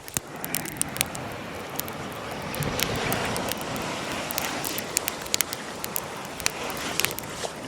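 Bonfire crackling with frequent sharp pops over the steady wash of surf, which swells for a few seconds in the middle.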